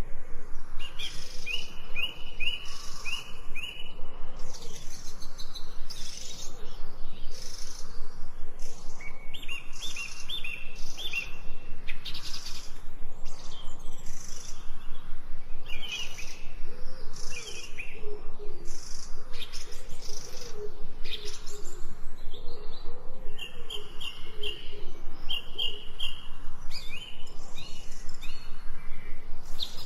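Several birds singing together in a forest chorus: quick runs of repeated high notes, many short chirps, and lower wavering calls through the middle stretch.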